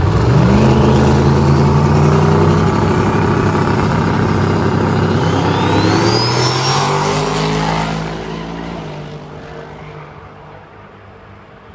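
Turbocharged truck launching on a quarter-mile drag run: the engine comes up hard just after the start and holds at high revs. A high whistle rises about halfway through, and then the sound fades steadily as the truck pulls away down the track.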